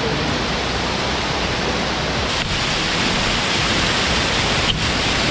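Loud, steady rush of Damtua waterfall's falling water, close to the microphone.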